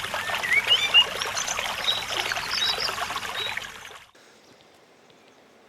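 River water rushing and trickling, with a few short high chirps over it. It cuts off about four seconds in, leaving only a faint background.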